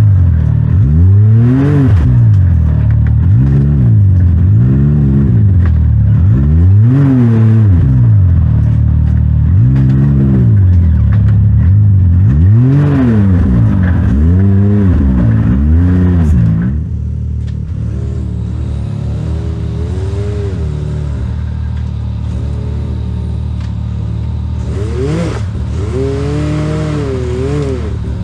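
Side-by-side UTV engine revving up and falling back over and over, every couple of seconds, as the throttle is worked. A little past halfway it becomes noticeably quieter, and the revs rise and fall more gently.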